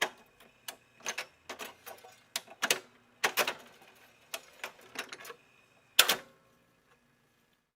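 A series of irregular sharp clicks and taps, some in quick pairs, the loudest about six seconds in, stopping a second before the end.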